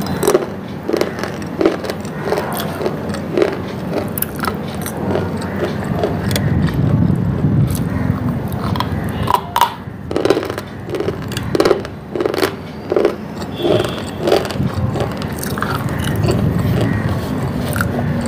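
Close-up crunching as a person bites and chews brittle white chalk-like pieces: a long run of short, sharp crunches, several a second at times.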